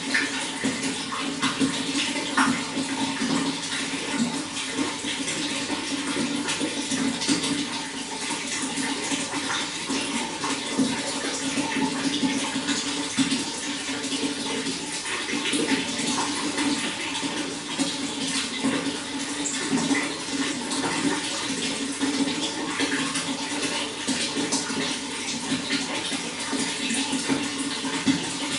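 Running water flowing steadily, with many small splashes and trickles scattered through it.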